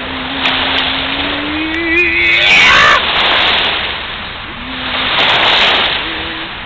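Lake waves washing against the shore, surging near the middle and again about five seconds in. Over them a person's voice holds one long note that slides slowly upward, ending in a brief high cry.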